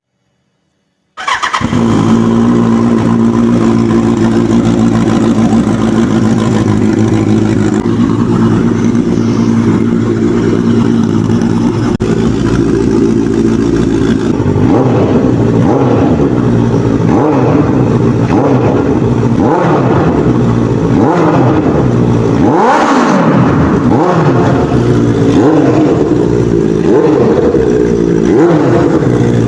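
Benelli 600i motorcycle's inline-four engine cold-started: it catches suddenly about a second in and idles steadily. From about halfway on it is revved with repeated throttle blips that rise and fall in pitch, the biggest one near the end.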